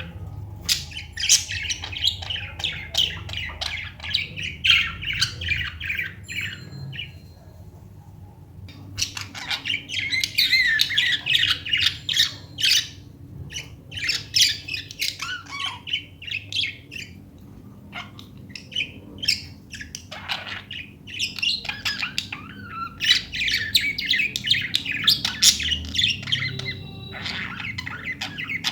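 Budgerigars chattering with rapid chirps and squawks in long runs, with two short lulls, one about a quarter of the way in and one a little past the middle.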